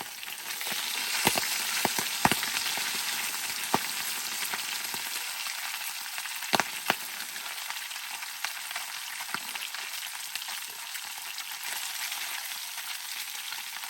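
Fish frying in hot oil in a pan: a steady sizzle with sharp pops and spatters, the loudest about a second in, again around two seconds in, and twice more between six and seven seconds in.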